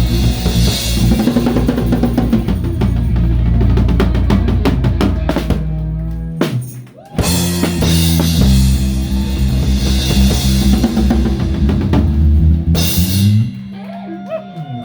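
Live rock band playing full out: a drum kit with bass drum and a towel-dampened snare, over bass and electric guitars. The band stops dead about six and a half seconds in, comes back in, and ends together a little before the end, leaving a few notes ringing.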